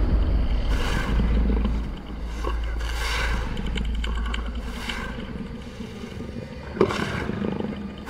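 Sound-effect growls of an unknown large creature, deep and guttural, repeated about every two seconds over a heavy low rumble.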